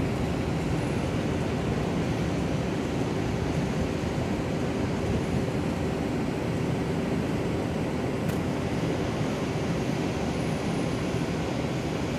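Long Island Rail Road electric train running at a distance: a steady rumble with a steady mid-pitched hum.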